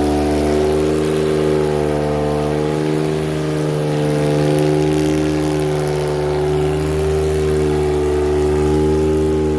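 1968 Porsche 911's rebuilt air-cooled flat-six engine idling steadily, its pitch wavering only slightly.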